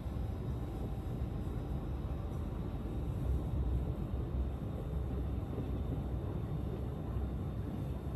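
Steady low rumble of a KTM electric train running, heard from inside the passenger coach.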